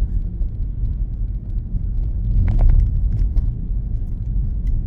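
Steady low rumble of a car being driven, engine and road noise heard from inside the cabin, with a few light clicks about halfway through.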